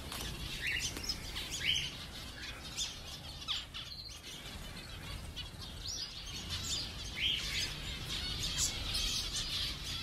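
Many ornamental aviary birds chirping, short high chirps overlapping one another with no break.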